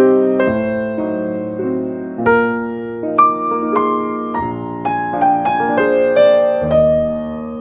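Slow, gentle piano music: soft chords and single notes struck and left to ring.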